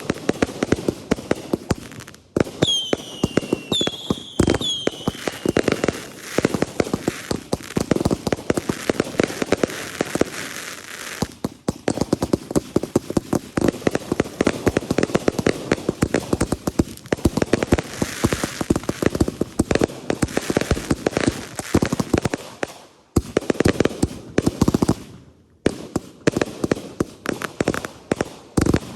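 Consumer fireworks going off in rapid succession: dense volleys of crackling pops and bangs, with three short falling whistles about three to five seconds in.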